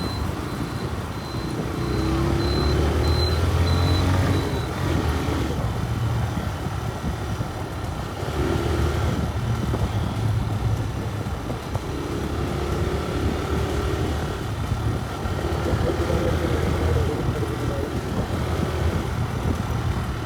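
TVS Raider 125 motorcycle's single-cylinder engine running on the move, swelling and easing off several times as the throttle opens and closes. A faint, evenly repeating high beep sounds during the first few seconds.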